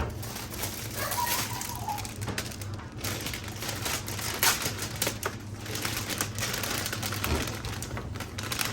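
Irregular clicks and light knocks of food containers and packages being handled and set down while a refrigerator is restocked.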